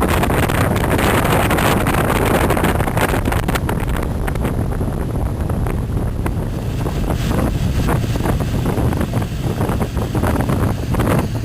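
Wind buffeting the microphone over the steady drone of a high-speed passenger boat under way.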